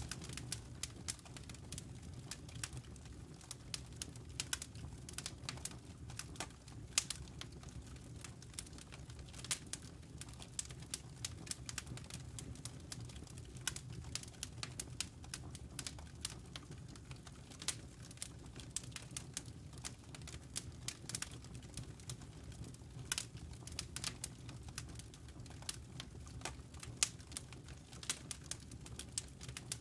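Campfire wood burning, with frequent irregular sharp crackles and pops over a low steady rumble.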